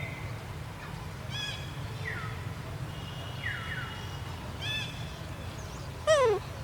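A string of short, high-pitched animal calls, each falling in pitch, about one a second over a steady low hum; the loudest, a brief sliding squeal, comes about six seconds in.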